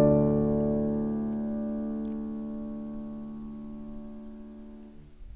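Background music: a single sustained piano chord, struck just before and slowly fading away, then cut off about five seconds in.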